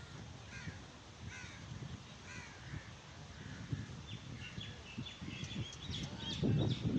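Birds calling: a run of short, harsh repeated calls, several overlapping a little after halfway. A low rumbling noise swells near the end.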